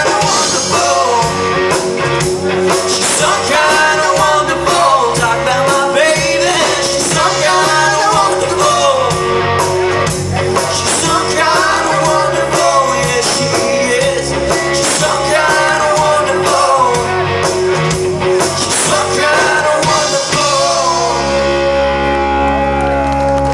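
Rock and roll band playing with a singer, drums and guitar. About three seconds before the end the drumming stops and the band holds a final chord.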